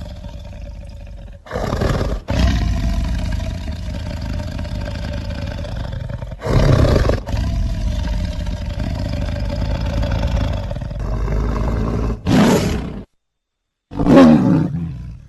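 Film creature sound effects of a smilodon (sabre-toothed cat): a long rumbling growl broken by several loud roars, then after a brief gap a last snarling roar that falls in pitch.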